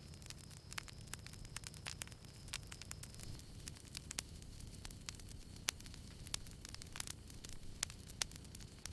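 Small campfire crackling: many irregular sharp pops and snaps over a steady low rumble from the fire.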